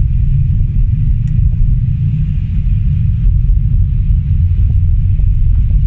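Car driving on winter roads: a steady low rumble of engine and tyres.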